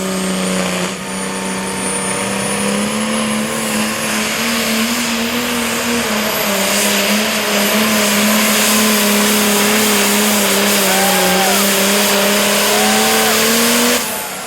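Super Farm class turbocharged diesel pulling tractor running at full throttle as it hauls the sled down the track. It is a loud, steady engine note with a thin high whistle, rising slightly before the throttle is cut sharply near the end.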